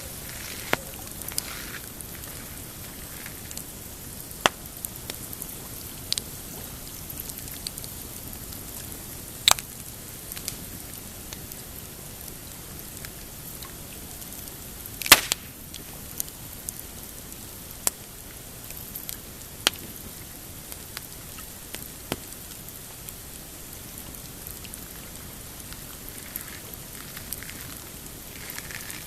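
Pine-wood campfire crackling, with sharp pops at irregular intervals over a steady hiss; the loudest pop comes about halfway through.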